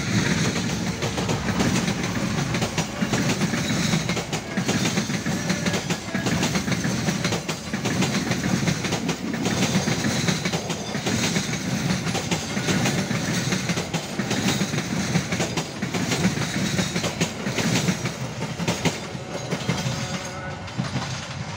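Passenger train coaches rolling past close by, the wheels clicking over rail joints in a continuous clickety-clack with a deep rumble underneath. It grows fainter near the end as the last coach goes by.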